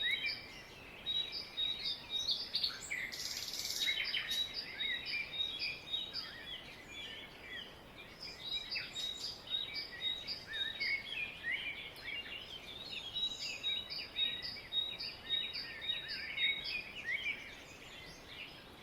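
Several birds singing and chirping at once, many short overlapping calls and whistles. Through it runs a steady series of short high notes repeating a little under twice a second, and a brief hiss sounds about three seconds in.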